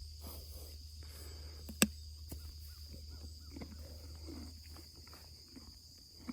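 Donkeys chewing carrots, irregular soft crunching, with a sharp click a little under two seconds in. A steady high insect drone runs behind.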